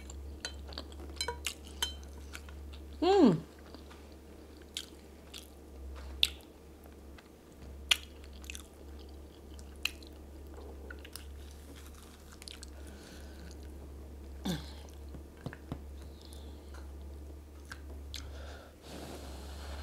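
Close-miked eating: chewing and mouth noises of chicken and plantain in pepper soup, with many short sharp clicks. About three seconds in comes a short, loud, falling voiced 'mm', and a weaker one about fourteen and a half seconds in. A steady low hum runs underneath.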